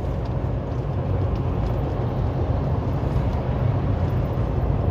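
Steady low rumble of a loaded tractor-trailer running down the interstate, diesel engine and road noise heard from inside the cab.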